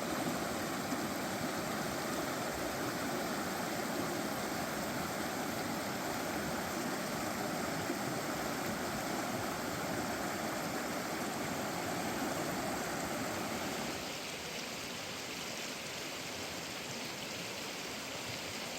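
Creek water flowing in a steady rush, a little quieter from about fourteen seconds in.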